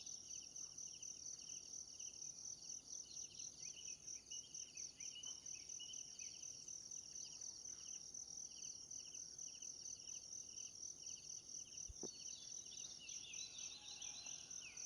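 Faint forest insect chorus, crickets or cicadas trilling in a steady fast pulse, with short bird chirps about three seconds in and again near the end. A single sharp click about twelve seconds in.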